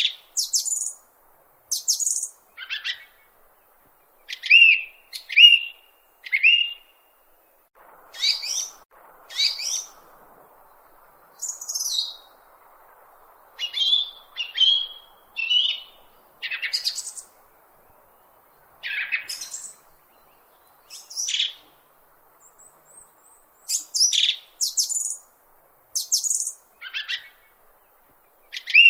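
A bird's short, high-pitched chirps, many falling in pitch, repeated in irregular groups of one to three about every second or two.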